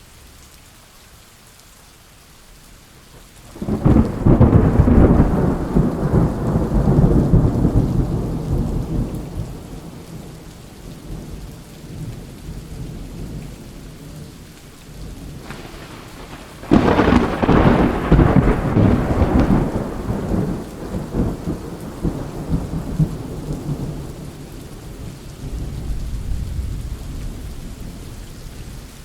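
Thunderstorm: steady rain with two long peals of thunder, each cracking in suddenly and rolling away over several seconds, the first about three and a half seconds in, the second about seventeen seconds in, and a fainter low rumble near the end.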